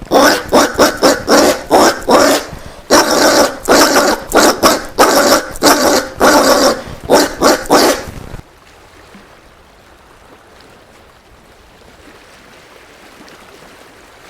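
Collared peccary (caititu) giving a fast run of loud, repeated calls, about three a second, with a short break about two and a half seconds in, then stopping abruptly about eight seconds in.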